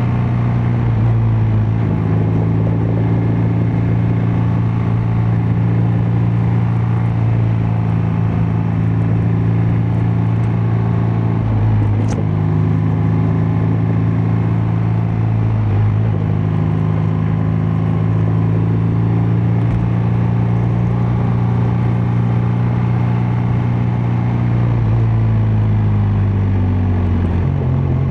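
BMW R12 nineT's boxer-twin engine and exhaust at a steady cruise, the engine note holding level with small shifts in pitch a few times.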